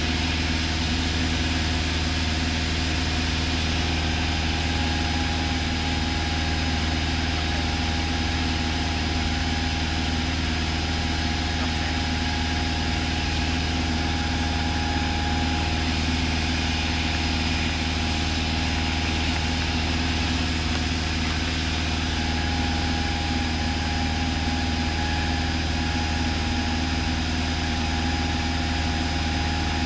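Cessna 172 piston engine and propeller droning at a steady cruise power, heard inside the cabin as an even hum with no change in pitch or level.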